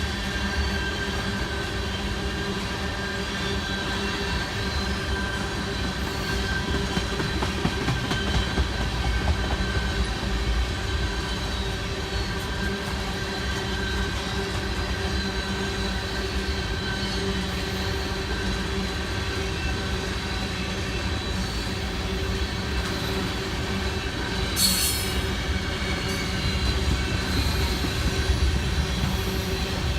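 Railroad cars of a passing train rolling by with a steady rumble and a continuous high-pitched wheel squeal. About 25 seconds in there is a short, sharp hiss or screech.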